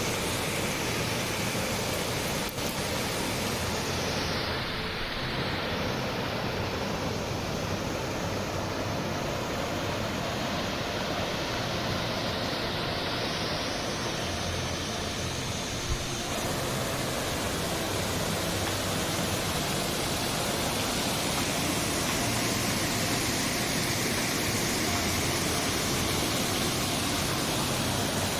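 Water rushing steadily at a spring-fed waterfall, a continuous even noise with no pauses.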